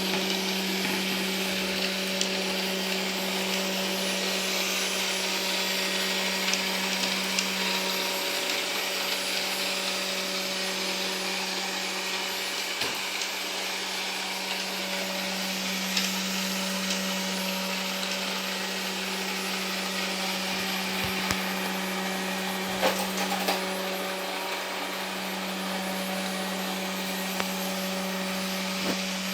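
Ilife V55 Pro robot vacuum cleaner running: a steady motor hum with a constant low tone and a hiss over it, and a few light clicks and knocks scattered through.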